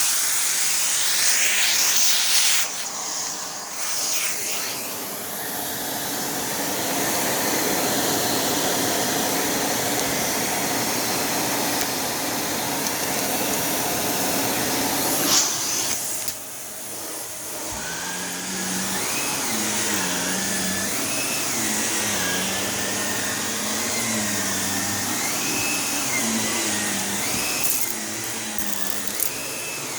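Shark Navigator Lift-Away NV351 upright vacuum running steadily. A sharp click and a brief drop come about halfway through, then the motor's hum wavers up and down in pitch again and again.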